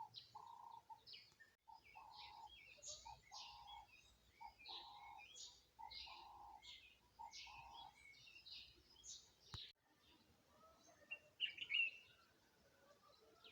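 Faint mixed birdsong: one bird repeats short, even notes in a steady series for about eight seconds while other birds chirp higher, then a few scattered chirps near the end.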